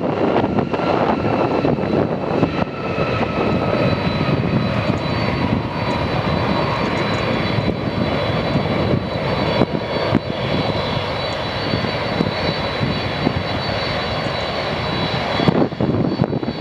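Engines of a Boeing 737-200 (Pratt & Whitney JT8D turbofans) running during landing: a steady, dense noise with high whining tones over it.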